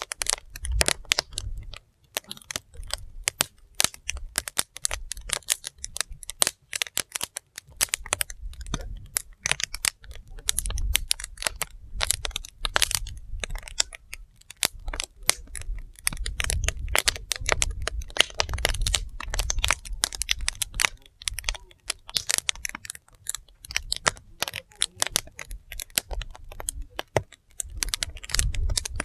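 Firewood burning, the logs crackling and popping in dense, irregular clicks over a low, wavering rumble.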